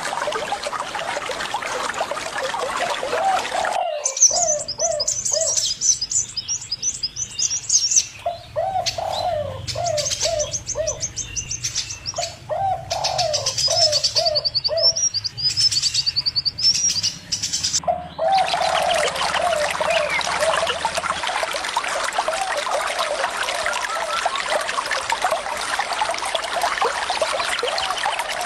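Trickling water with birds calling over it. About four seconds in, the water sound cuts out abruptly, leaving rows of short repeated calls and quick high-pitched chirping. The water comes back suddenly at about eighteen seconds.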